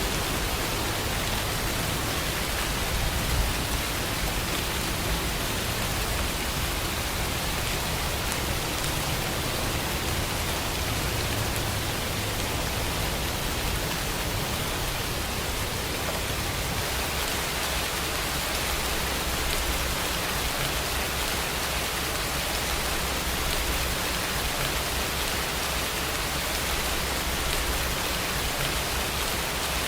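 Steady rain falling, an even hiss, with a low rumble underneath that eases about halfway through.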